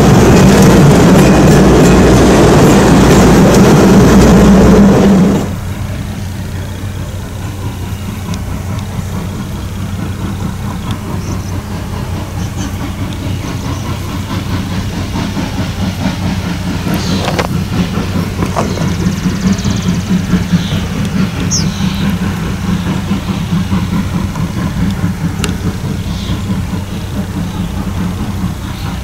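Passenger train coaches rolling past close by, a loud rumble that cuts off abruptly about five and a half seconds in. After that, Norfolk & Western 4-8-0 steam locomotive No. 475 working its train in the distance, a much quieter steady sound with a few short high chirps over it.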